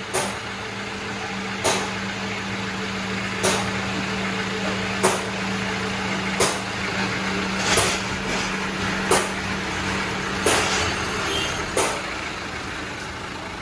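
A steady mechanical hum with a sharp knock about every one and a half seconds, nine in all.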